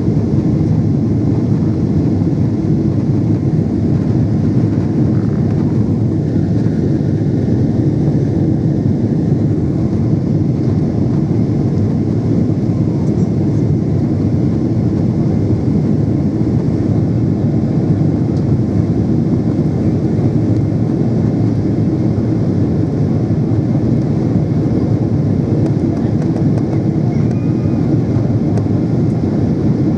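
Steady low rumble of a Boeing 777-300's engines and airflow, heard inside the passenger cabin in flight.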